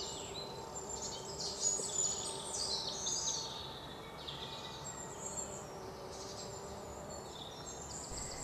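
Wild birds chirping, many short high calls and quick pitch sweeps overlapping one another over a faint steady outdoor background.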